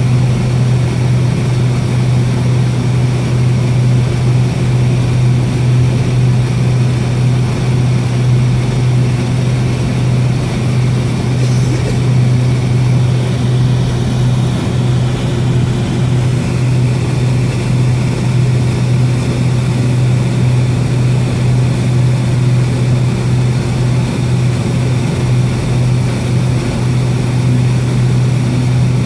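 Cabin noise inside a Boeing 757-232 with its two Pratt & Whitney PW2037 turbofans at idle while taxiing: a steady low hum over an even hiss that stays level.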